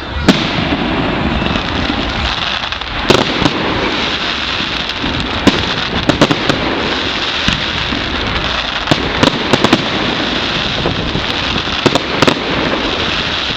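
Fireworks display: a dense, continuous crackle with many sharp bangs of bursting shells scattered through it, several loud ones a few seconds apart.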